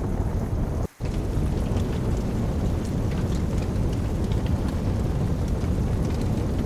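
Steady rain with a deep continuous rumble underneath and many small sharp crackles and drips on top. The whole sound cuts out for a split second about a second in, then carries on unchanged.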